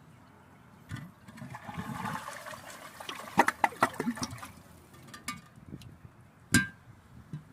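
A toilet flushing: a rush of water, then a run of gurgles and glugs as it drains, and a single sharp knock near the end.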